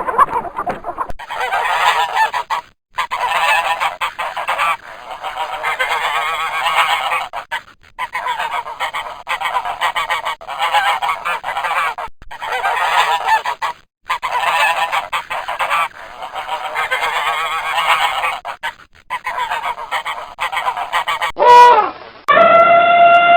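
A flock of birds calling harshly and repeatedly, in runs of a few seconds with short breaks. Near the end it cuts to a different long pitched call that falls in pitch as it ends.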